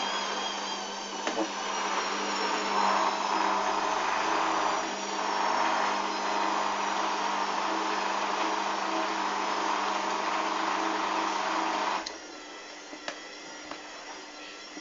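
Hoover washing machine running with a steady motor noise and a high whine that falls slightly in pitch at the start. About twelve seconds in, the motor noise cuts off suddenly, leaving a quieter steady hum with a few small clicks.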